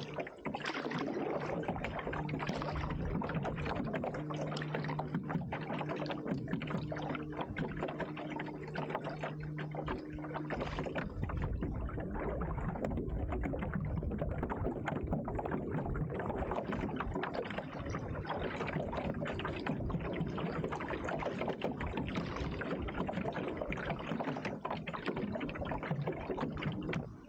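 Water splashing and sloshing around a canoe. There is a steady low hum under it for about the first ten seconds.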